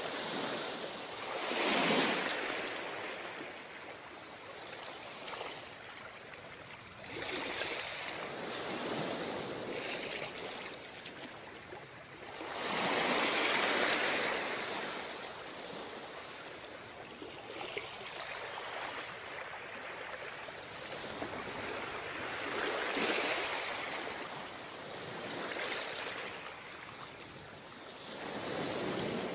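Ocean waves breaking and washing on a sandy beach, with the surge swelling in loudness every several seconds; the biggest breaks come about two seconds in and about halfway through.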